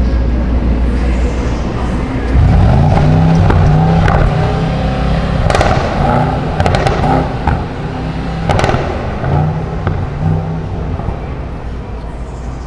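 A car engine revving up sharply about two seconds in and held at high revs for several seconds, with a few sharp bangs around the middle.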